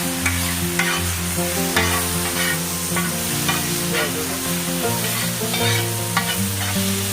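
Shredded cabbage sizzling in a hot pan as it is stir-fried with spices, a spatula scraping and tossing it in repeated short strokes. Background music with held notes plays along.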